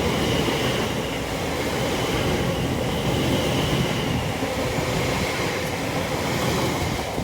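Greater Anglia Class 720 electric multiple unit passing through at line speed: a steady rumble of wheels on rail, with a faint high whine over the first few seconds.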